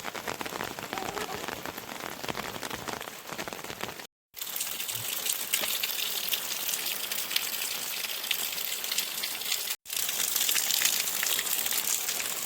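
Heavy rain falling, a dense patter of drops striking a surface. The sound drops out completely twice, briefly, about four seconds in and again near ten seconds.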